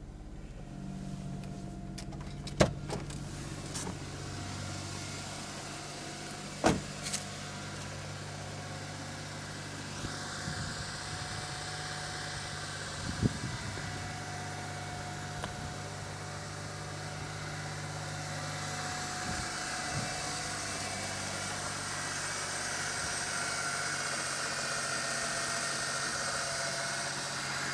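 Daewoo Matiz engine idling steadily after a cold start in deep frost, with three sharp knocks in the first half.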